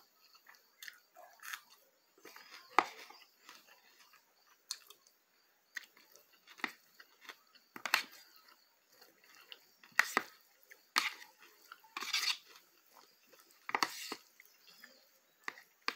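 Close-up eating sounds: chewing and mouth smacks in irregular short clicks, a louder one every second or two, mixed with taps of a plastic fork in a plastic bowl.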